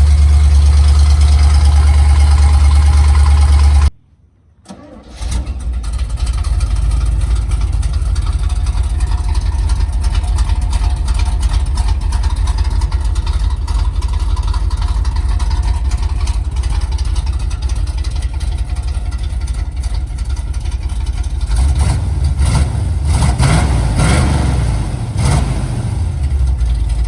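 The cammed 350 small-block Chevy V8 with headers in a 1974 Chevrolet C30 dump truck, running at a steady idle. The sound cuts out abruptly about four seconds in and returns about a second later. Near the end the engine is revved a few times.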